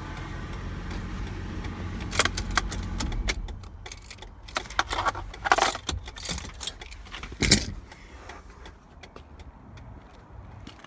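2004 Ford Mustang's 3.9-litre V6 idling, then shut off about three and a half seconds in, followed by a run of sharp clicks and the jingle of keys, loudest near the end.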